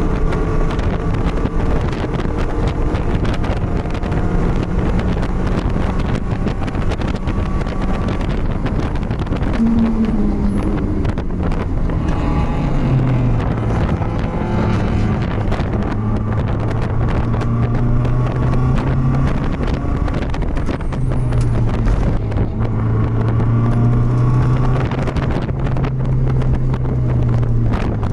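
BMW race car's engine heard from onboard, running at a fairly steady moderate speed rather than revving hard; its pitch drops around ten to thirteen seconds in and then holds. There is rushing wind noise on the microphone.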